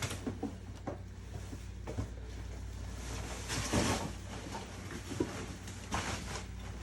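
Scattered light knocks and clatters of household clutter being shifted by hand while searching underneath it, over a steady low hum.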